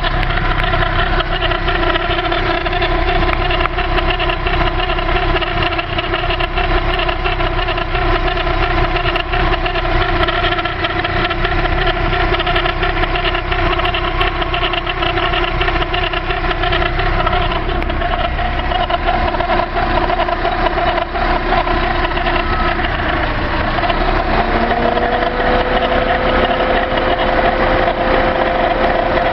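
Volkswagen Gol G3 1.6 MI engine idling, with a steady whirring like a bad bearing from the right side of the engine: the sign of a failing water pump bearing. About three-quarters of the way through, a second steady whine sets in.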